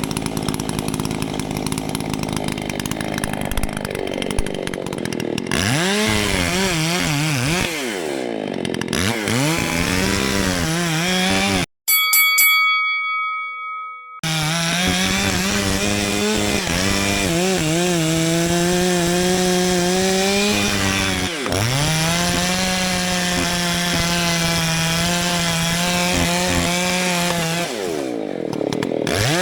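Gas chainsaw running while cutting a big hardwood trunk, its engine revving up and down and then holding steady at full speed for long stretches in the cut. About twelve seconds in, the sound breaks off for a couple of seconds, leaving a short ringing tone.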